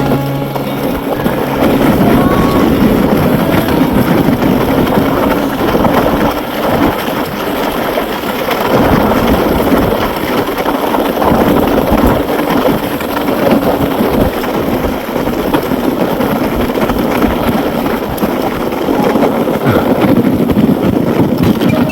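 Wind buffeting the microphone along with rolling and rattling noise from a moving electric bike: a loud, uneven rushing that rises and falls but never stops.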